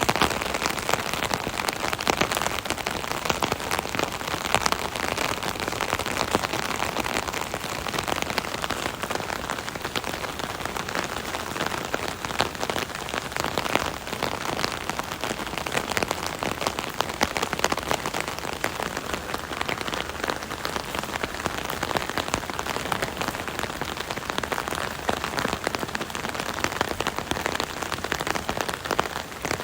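Steady rain pattering on an umbrella canopy overhead: a dense, even patter of countless drops.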